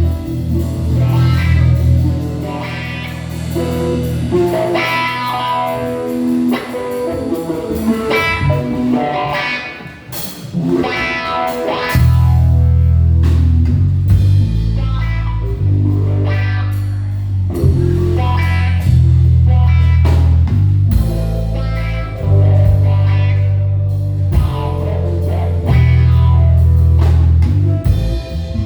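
Live band playing an instrumental passage in a blues-rock vein: electric guitar lines over bass guitar and drum kit. The bass drops away a few seconds in and comes back strongly about twelve seconds in.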